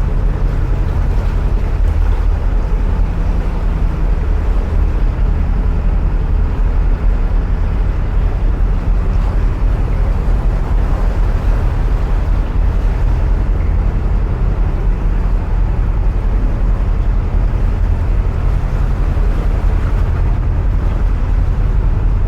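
Narrowboat engine running steadily, a continuous low rumble, heard from the stern while the boat cruises through a canal tunnel.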